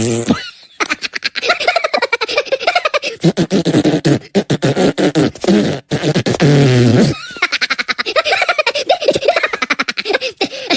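A person's voice making quick, rapid-fire vocal noises, with a held low tone from about six to seven seconds in.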